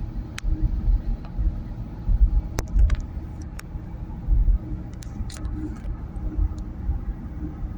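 Low, uneven road and engine rumble inside a moving car, with a few light clicks and ticks scattered through it.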